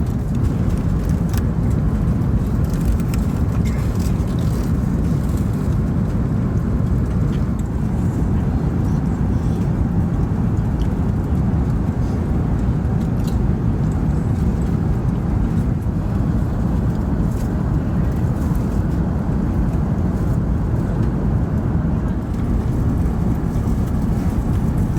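Steady low rumble inside the cabin of an Emirates Airbus A380 in motion, from engine and airflow noise, with a few faint light ticks.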